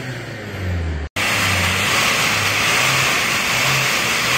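Hyundai Trajet XG's diesel engine dropping back from a free-rev smoke test. After an abrupt cut about a second in, it runs steadily with a loud hiss over its low hum.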